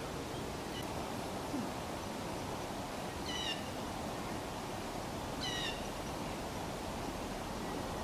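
A small bird calling twice, about two seconds apart, each call a quick run of a few short pitched notes, over a steady outdoor background hiss.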